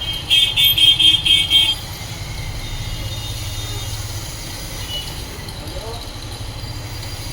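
A rapid series of about six high-pitched beeps in quick succession, over a steady low rumble of traffic-like background noise.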